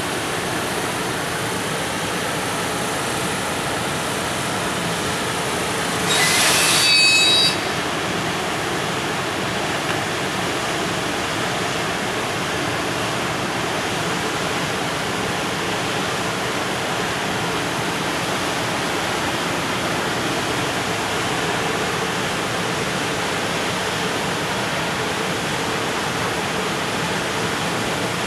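Freight train of container wagons rolling past, a steady loud rumble of wheels on rail. About six seconds in comes a brief, louder hiss with thin high whistling tones, lasting about a second and a half.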